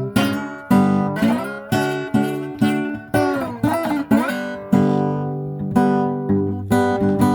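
Acoustic guitar with four strings in an open G tuning, played flat on the lap: a steady blues picking pattern, about two strokes a second. About halfway through, the notes slide up and down in pitch.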